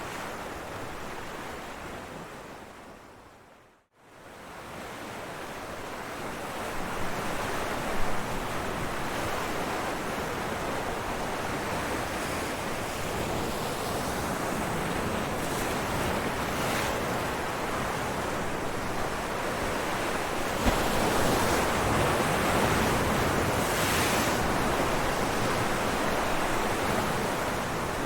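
Ocean waves crashing on rocks: a steady wash of surf with swells that build and recede. About four seconds in the sound fades briefly to near silence and fades back in, with the heaviest waves later on.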